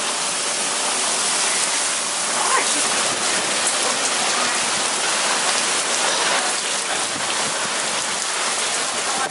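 Heavy rain falling, a steady even hiss of rain with no letup.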